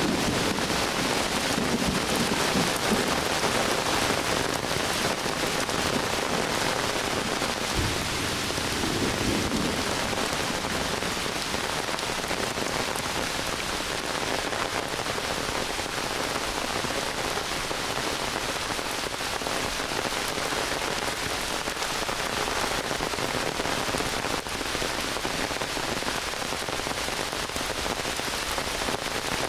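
Heavy summer rain pouring steadily onto forest foliage, an even hiss of countless drops, with a low rumble of thunder dying away in the first few seconds.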